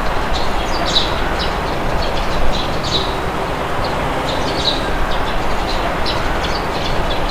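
Steady rushing wind with a low rumble, with small birds chirping in short, high calls scattered throughout.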